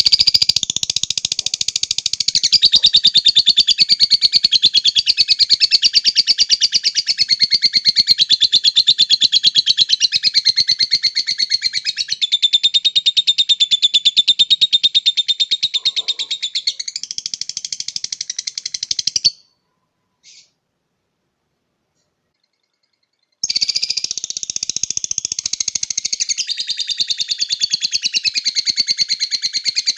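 Lovebird singing a long, unbroken ngekek: a rapid, high, continuous chatter. It breaks off about 19 seconds in, stays quiet for about four seconds, then starts up again.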